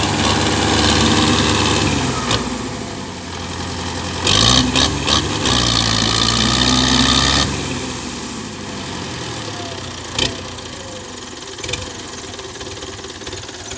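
Tractor engine running hard, loud for the first couple of seconds and again from about four to seven and a half seconds, easing off in between and after. There are a few sharp clicks during the second loud stretch and a single sharp knock about ten seconds in.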